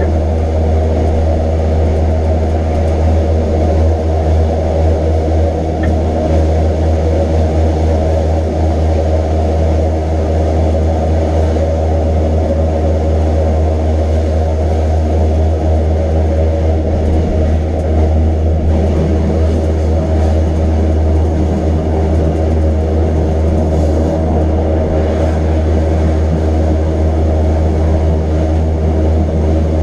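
Electric rack-railway train running steadily, heard as a loud, constant deep hum with a steady drone of motor and gear tones above it.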